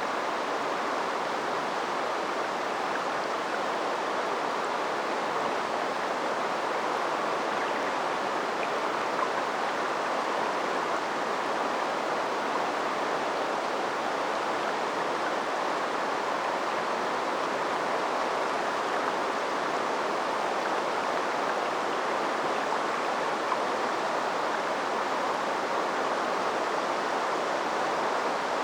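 Shallow river water flowing steadily over its bed, a continuous even rushing.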